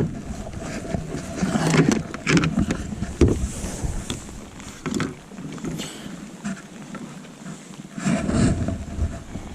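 Irregular knocks, clicks and rustling of gear being handled in a kayak, with two bursts of low rumble about two seconds in and near the end.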